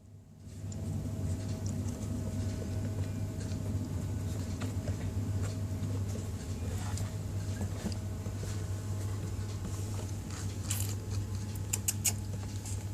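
Kittens playing: light patter and scratching of small paws and claws, with a few sharp clicks about eleven to twelve seconds in, over a steady low hum.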